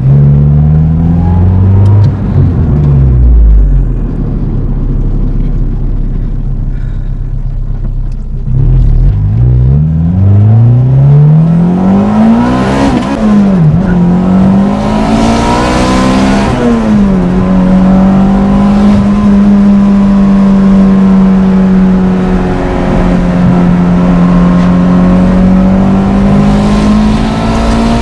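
Turbocharged Honda B18B four-cylinder engine of an Integra, heard from inside the cabin while it is driven. The revs rise and fall through several gear changes, with two hard pulls about halfway through. The engine then holds a steady pitch while cruising and rises slightly near the end.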